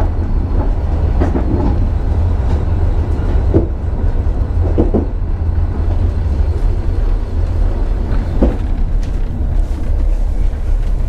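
An old compartment coach of a long-distance passenger train running along the track, heard from inside the coach: a steady low rumble with a few short knocks from the running gear.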